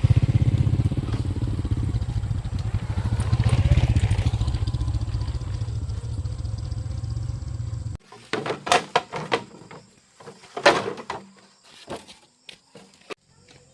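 Motorbike engine running with a steady low throb, easing off slightly over several seconds. About eight seconds in it stops abruptly, and scattered knocks and a few short calls follow.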